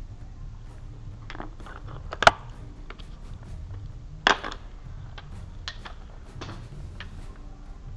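Hand tools clinking and knocking against metal engine parts, with two louder metallic strikes about two and four seconds in.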